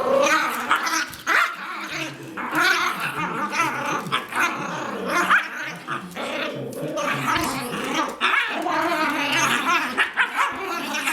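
A Newfoundland puppy and a Yorkshire terrier play-fighting, with repeated barks, yips and growls throughout.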